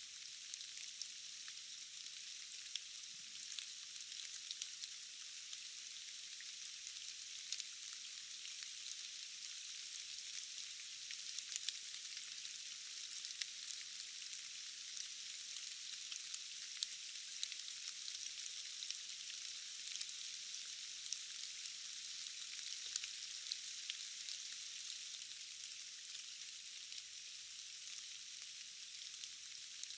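Steady rain falling: a dense, even hiss with scattered small drop ticks, thin and with no low rumble.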